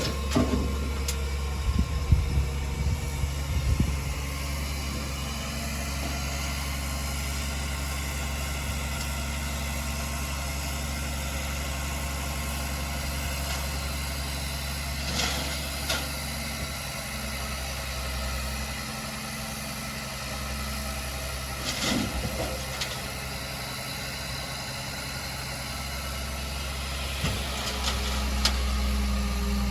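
Heavy earthmoving machine's diesel engine running steadily at low revs, with a few short knocks and clanks scattered through.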